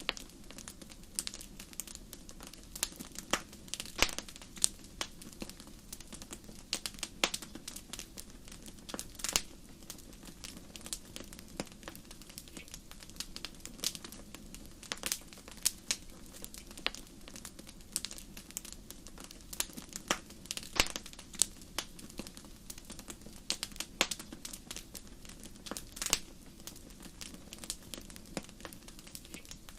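Fire in a fireplace crackling: irregular sharp pops and snaps, a few each second, over a low steady background.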